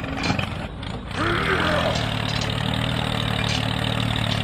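An engine running steadily with a low, even hum that sets in about a second in.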